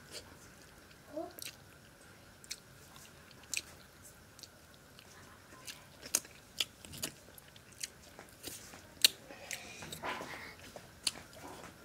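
Close-miked chewing and lip smacking of a person eating by hand, with many irregular sharp, wet clicks.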